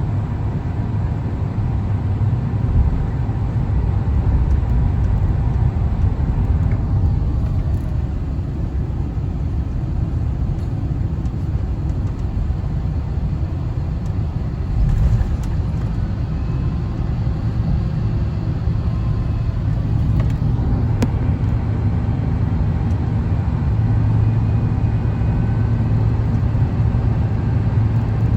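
Steady in-cabin rumble of an Airbus A350-1000 in flight: its Rolls-Royce Trent XWB engines and the airflow past the fuselage. A low steady hum grows stronger about three-quarters of the way through.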